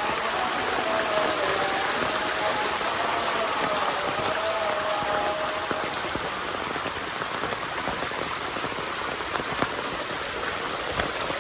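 Steady soft rain falling on surfaces, an even hiss with a few sharper drop ticks near the end. A faint wavering tone sits underneath for roughly the first half.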